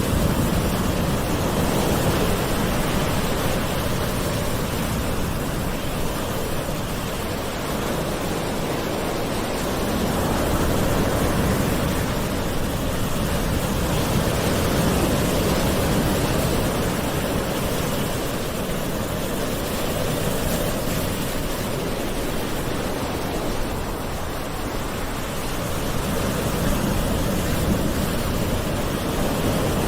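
Gentle ocean waves washing on a shore: a steady rush of surf whose loudness slowly swells and eases.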